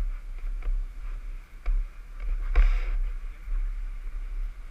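Water splashing and sloshing as a surfboard is paddled out through the surf, over a steady low rumble of water and wind on the microphone; one louder splash comes about two and a half seconds in.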